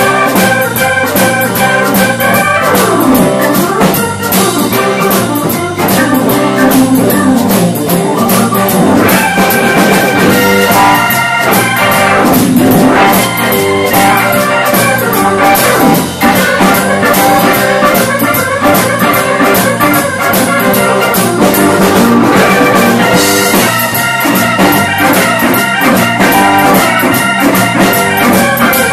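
Live rock band playing an instrumental section without vocals: a drum kit keeps a steady beat under sustained melodic instrument lines.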